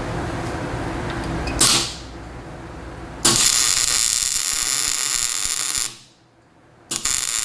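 Welding arc sizzling in two long bursts: a steady, bright hiss starts about three seconds in, cuts off, and starts again after a pause of about a second near the end. The weld is going onto rusty metal.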